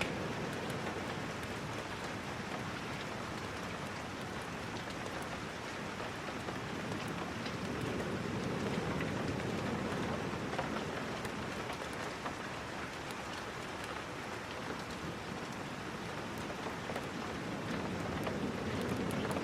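Steady rain falling, dotted with many small sharp ticks of drops or crackles. The level swells gently and eases twice.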